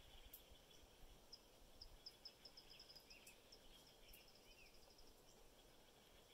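Near silence with a faint hiss, broken by faint distant bird calls: a quick run of short high chirps about a second in, and two brief rising-and-falling notes a little later.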